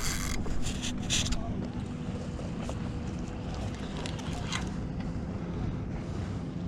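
Wind on the microphone and sea water around a fishing kayak, with a few short hissing splashes in the first second and a half.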